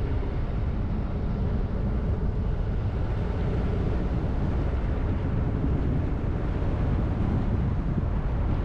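A car driving at steady speed: a constant low rumble of road and engine noise that does not rise or fall.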